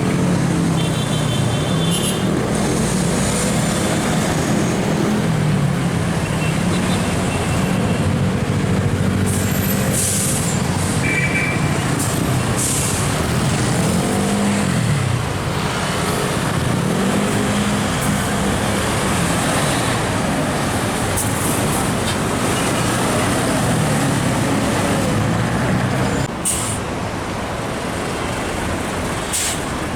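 Heavy diesel trucks passing in traffic, their engines rising and falling in pitch as they pull through the gears over steady road noise. Several short air-brake hisses cut in along the way.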